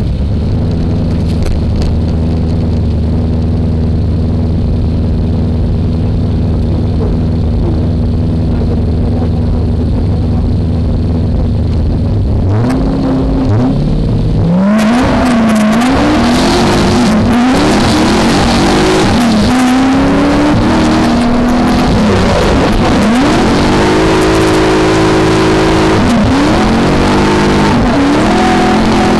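V8 engine of a BMW E30 drift car, heard onboard, running steadily at low revs, then revving up at about twelve seconds in, its revs swinging up and down repeatedly while a loud rushing noise joins.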